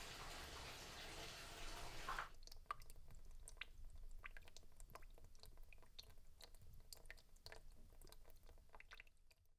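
Faint steady hiss that cuts off about two seconds in, followed by a run of small, irregular clicks and crackles.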